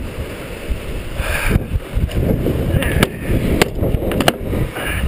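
Strong wind buffeting the microphone in a steady low rumble, with a few sharp clicks or knocks from about three seconds in.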